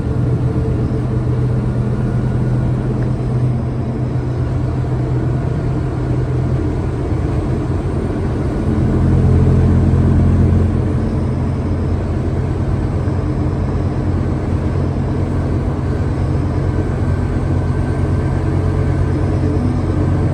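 Scania K320UA bus's diesel engine running under way, a steady low drone with road noise, growing louder for a stretch about nine to ten seconds in.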